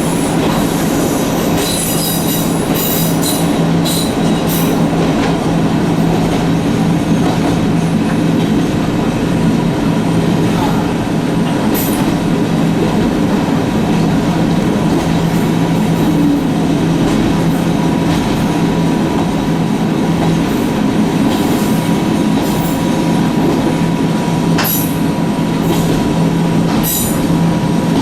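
Echizen Railway electric railcar running, heard from aboard: a steady low drone of motors and wheels with a thin constant hum. Short sharp clicks and brief wheel squeals come now and then, thickest a couple of seconds in and near the end.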